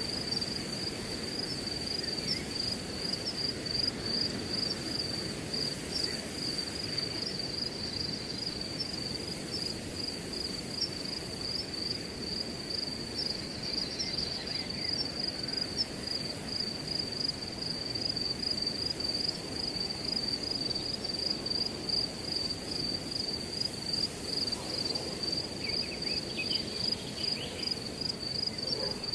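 Crickets chirping in a steady, high, pulsing trill over a low rush of wind through grass.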